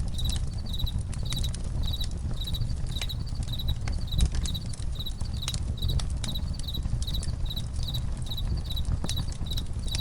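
Campfire crackling, with irregular sharp pops over a low rumble, while a cricket chirps steadily about twice a second.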